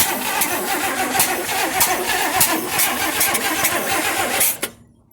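A 1958 AMC Rambler's 195.6 OHV six-cylinder engine being cranked by the starter without catching, with several sharp cracks along the way. The cranking stops abruptly near the end. This is a freshly rebuilt engine that won't start; the owners suspect the carburettor or fuel pump.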